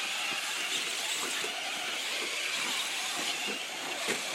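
Traxxas radio-controlled short course trucks running on the race track: a steady high whine over a hiss, with scattered faint ticks.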